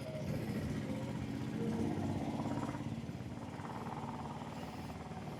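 Royal Enfield Hunter 350's single-cylinder engine running at idle, swelling slightly in level about two seconds in.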